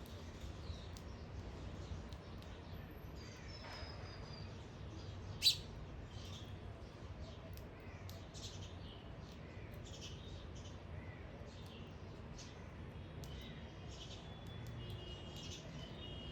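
Garden birds chirping faintly and intermittently, with a few short whistled notes, over a steady low hum. One sharp click about five and a half seconds in.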